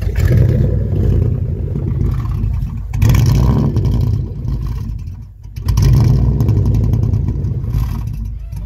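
A truck engine running loudly with a deep rumble, in three long surges with short dips between them about three and five seconds in.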